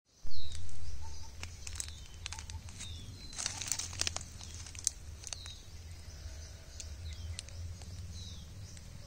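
A bird repeating a short, high, falling call every second or so, over a steady low rumble. A loud bump comes right at the start, and a cluster of crackling rustles comes near the middle.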